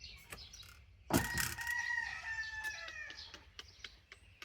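A rooster crowing once, starting about a second in, one long call that tails off lower at the end. Small birds chirp around it.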